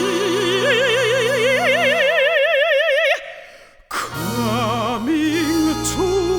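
Operatic soprano holding long sung notes with a wide vibrato, stepping up in pitch twice, over steady low instrumental accompaniment. The voice breaks off a little after 3 seconds in, then begins a new, lower phrase about a second later.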